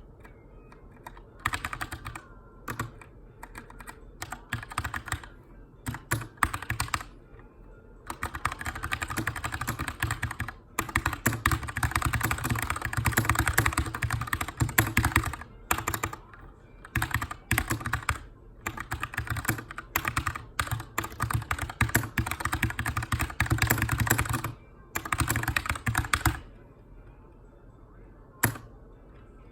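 Keychron K2 aluminium mechanical keyboard with brown switches being typed on in runs of rapid keystrokes broken by short pauses. Typing stops about three seconds before the end, with one lone keystroke just after.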